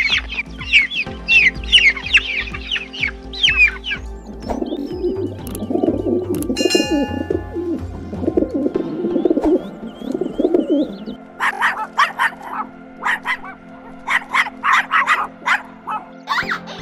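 A run of bird calls over background music: fast high chirping for the first few seconds, then low repeated cooing like a pigeon or dove, then short, sharp repeated calls like a hen clucking from about eleven seconds on.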